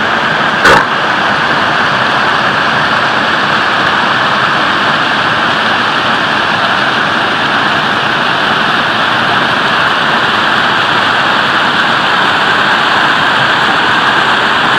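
Waterfall: a steady, loud rush of falling water, with one brief knock just under a second in.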